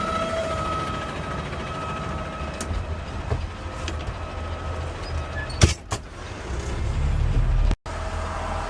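Garbage truck running, heard from inside the cab: a steady low engine rumble with a faint steady whine at first. Two sharp clunks come close together a little past halfway, then the engine rumble grows louder before it cuts off abruptly.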